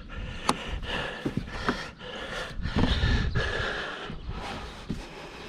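Plastic shroud covers of a Coleman Mach 3 rooftop air conditioner being handled and pressed together, with a few sharp plastic clicks, over a person's heavy breathing. A louder dull rumble of handling comes about halfway through.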